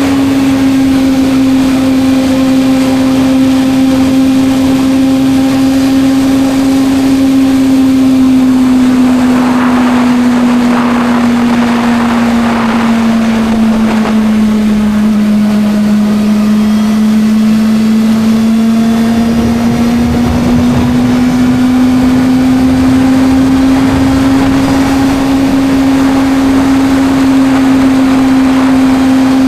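Suzuki GSR 600's inline-four engine running at a steady cruise, its pitch easing down a little around the middle and climbing back again.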